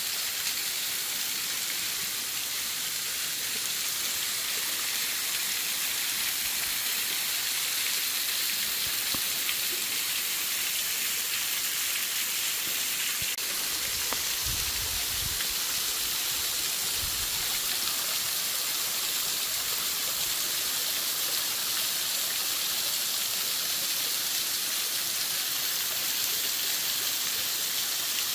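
Waterfall splashing down, a steady rushing hiss of falling water, with a few low bumps about halfway through.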